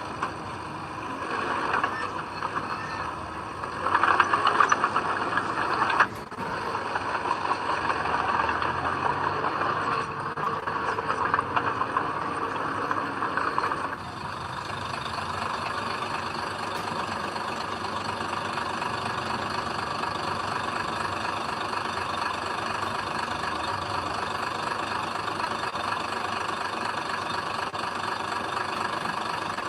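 Diesel engine of heavy earthmoving machinery at work, uneven and louder for the first half with a loud stretch about four seconds in. About halfway through the sound changes abruptly to a steady, even engine drone.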